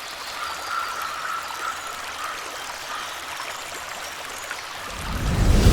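Running water, a steady trickle like a small stream. A low swell of music rises in near the end.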